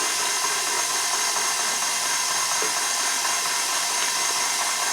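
Electric mixer running steadily with an even whirring, beating eggs into creamed butter and sugar.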